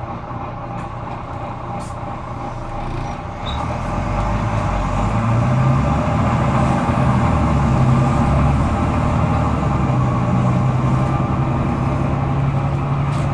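Volvo B9TL bus's nine-litre six-cylinder diesel engine running under way, heard from inside the bus; about four seconds in the engine note climbs and grows louder and stays high, the over-revving this bus is known for.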